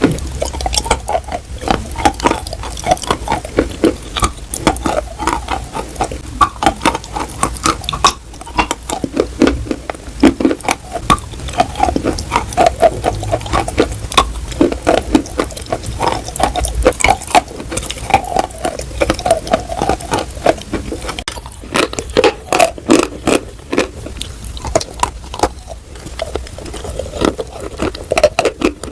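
Close-up chewing of edible chalk: a dense, irregular run of sharp crunches and crackles, many a second, with mouth sounds between bites.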